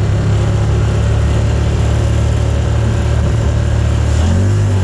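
Car engine and road noise heard from inside the cabin while driving, a steady low hum. The engine note shifts in pitch about four seconds in.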